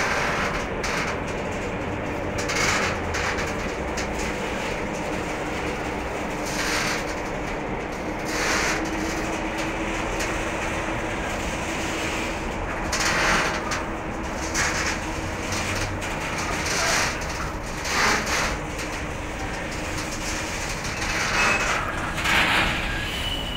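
A train running on the rails, its wheels clattering over rail joints every second or two over a steady rumble and a low hum.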